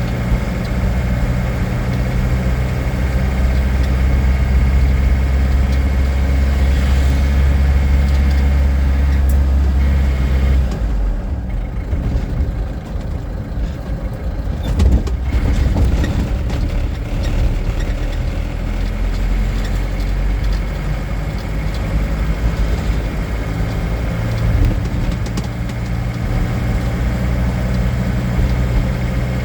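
Motor vehicle engine running, a steady low drone that shifts and thins out about eleven seconds in.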